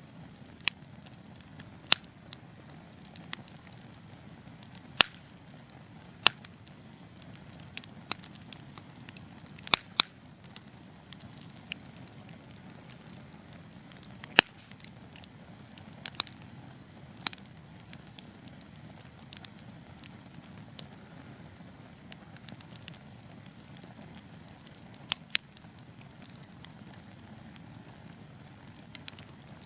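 Wood fire burning with a low steady rush, broken by sharp crackles and pops from the burning logs every second or two.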